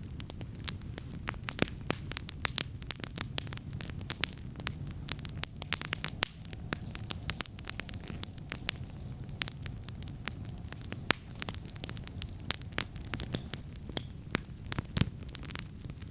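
Wood campfire crackling, with many sharp pops over a low steady rumble.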